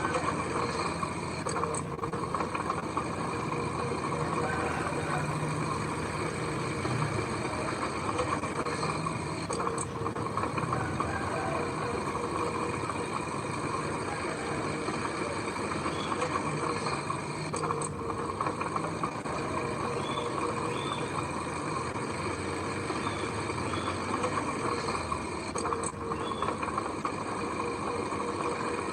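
Heavy machinery with a diesel engine running steadily, a continuous rumble with a constant whine.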